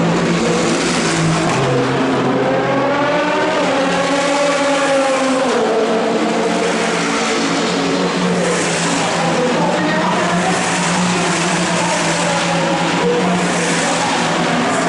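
Endurance race cars passing one after another at full speed, a continuous engine din with engine notes that rise and fall in pitch as each car goes by.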